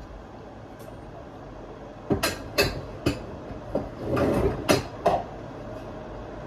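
Kitchen dishes and utensils clattering as they are handled: several sharp knocks and clinks starting about two seconds in, a longer rattle around four seconds, then two more knocks.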